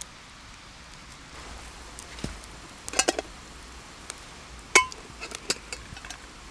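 Camp cookware and utensils clinking as food is handled over the fire: a few sharp clinks about halfway through, then one louder metallic clink with a short ring, followed by lighter taps.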